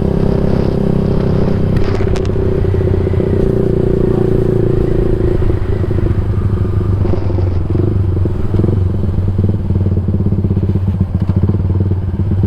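Yamaha MX King 150's single-cylinder four-stroke engine running through a Rob1 TGA aftermarket exhaust while riding. A steady exhaust note gives way about halfway through to a rougher, pulsing beat.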